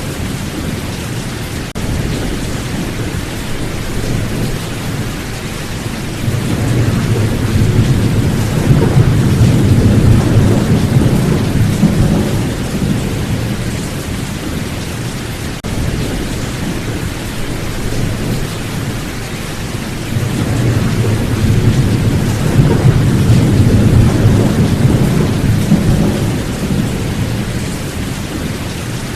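Steady heavy rain with two long rolls of thunder, one swelling up about seven seconds in and fading by about thirteen seconds, the other building again after about twenty seconds.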